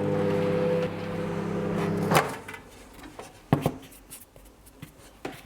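Microwave oven running with a steady hum while heating compo to soften it. It stops about two seconds in with a sharp click, like the door opening, followed by a few scattered knocks and clicks.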